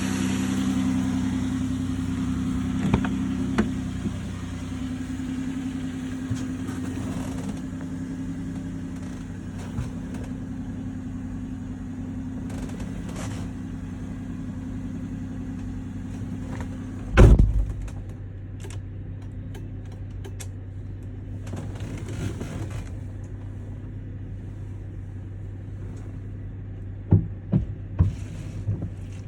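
Chevrolet Venture's 3400 V6 idling steadily while warming up after a cold start. A single loud thump comes about two-thirds of the way through, and a few sharp clicks near the end.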